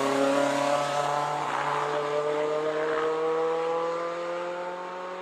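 Renault Clio hatchback's engine under acceleration as the car pulls away on a wet track, its note climbing steadily in pitch over a hiss of tyres on standing water, fading over the last couple of seconds.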